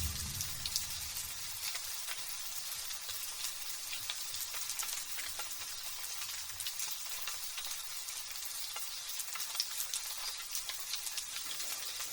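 Light drizzle pattering steadily, a fine crackling hiss of small drops with little low rumble, before thunder rolls in at the very end.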